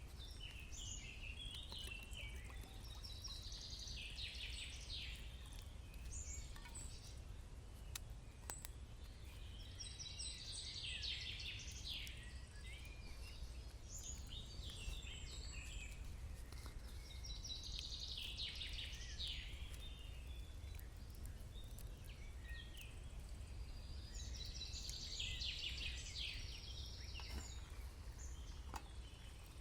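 A bird singing a phrase of rapid high chirps, repeated about every six seconds. A steady low rumble of outdoor background noise runs underneath.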